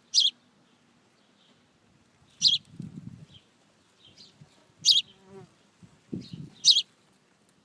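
A small wild bird calling: short, sharp high chirps repeated about every two seconds, with fainter notes between and two brief low rumbles.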